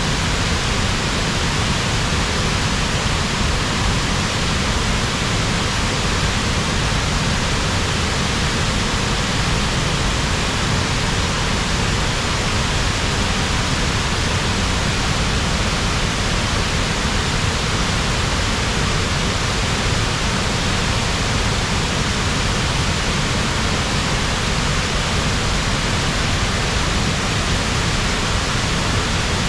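The Upper Tahquamenon Falls waterfall pouring steadily: an even, unbroken rush of falling water.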